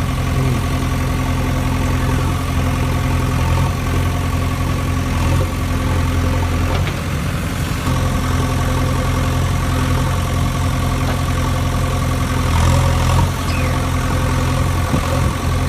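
Steady idling engine hum, even in pitch, with a short dip about seven seconds in.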